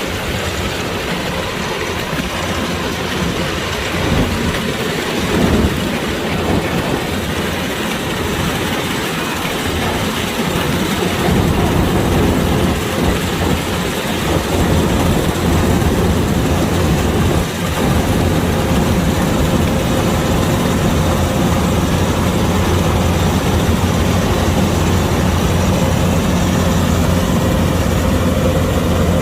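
Kubota DC-105X rice combine harvester running steadily with its diesel engine and machinery, growing a little louder about a third of the way in.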